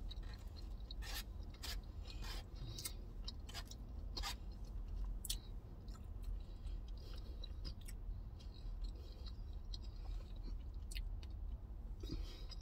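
A person chewing soft food, chili cheese fries, with scattered small wet clicks and smacks, most of them in the first five seconds, over a low steady rumble.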